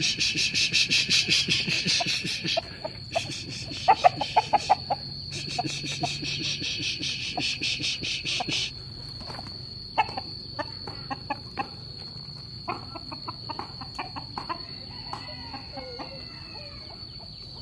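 Chickens clucking: a quick run of loud clucks about four seconds in, scattered clucks later, and some longer gliding calls near the end. Underneath, insects keep up a loud, fast pulsing trill that stops and starts twice, and a steady high-pitched buzz.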